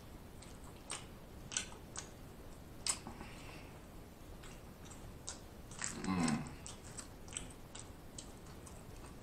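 Close-miked chewing of a steak taco, with scattered wet mouth clicks and smacks, and a short low hum falling in pitch about six seconds in.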